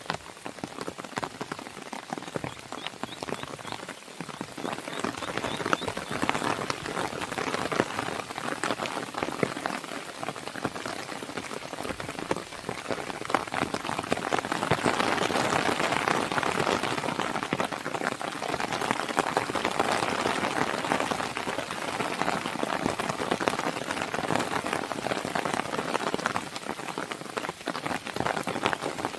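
Rain on a window, a dense steady patter of drops that grows louder about halfway through.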